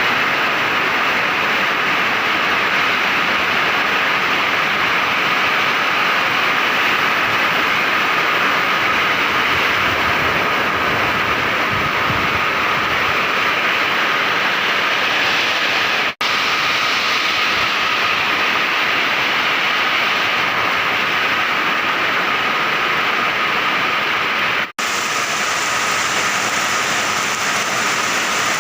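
Heavy rain pouring down with strong wind, a loud, steady rushing hiss. The sound cuts out for an instant twice, about 16 and 25 seconds in.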